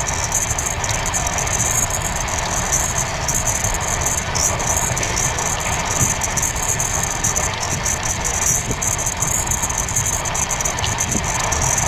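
Steady running noise of a passenger train on the move: a continuous low rumble with rattling and a high hiss.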